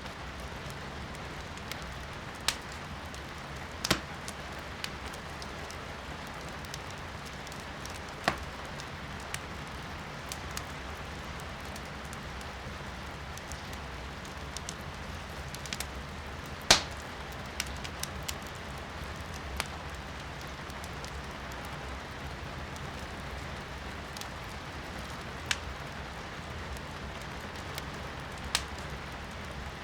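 Firewood burning in a fireplace, crackling with sharp pops every few seconds, the loudest a little past the middle, over a steady hiss of rain.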